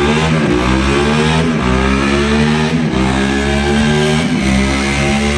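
A sportbike engine revving hard under full throttle on a dyno. Its pitch climbs, then drops briefly at each gear change, several times over.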